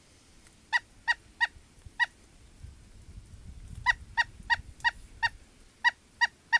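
A rescued woodpecker calling: a dozen short, nasal, honk-like calls, four spaced out early, then a quicker run of about three a second. The bird had been attacked by a hawk and has not yet flown.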